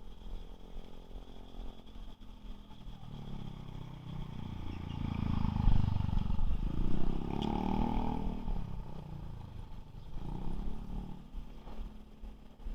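A vehicle's motor speeding up and then slowing, its pitch rising to a peak about halfway through and falling away, with a second, shorter rise and fall near the end.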